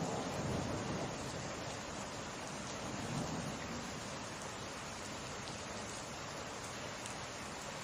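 Steady summer rain falling, an even hiss with no let-up. A low rumble swells in the first second and again about three seconds in.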